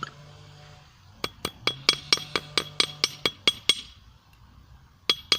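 Hammer blows on a hot steel screw blade on a small steel anvil, a quick run of about four strikes a second, each ringing sharply; the run stops before the middle and starts again near the end. The hammering straightens a blade that has twisted in the heat.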